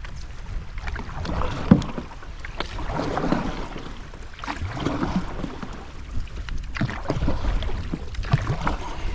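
Canoe paddling through river fast water: water rushing and splashing around the paddle and hull in surges every second or two, over a steady low wind rumble on the microphone.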